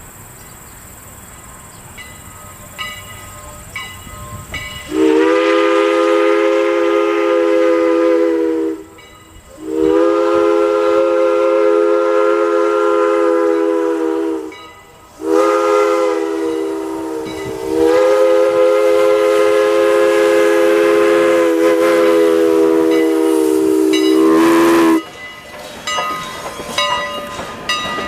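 Steam locomotive chime whistle on the Strasburg Rail Road blowing four loud blasts: long, long, short, then a longest final one. This is the long-long-short-long grade-crossing signal. Light clicking comes before it, and train noise on the rails follows near the end.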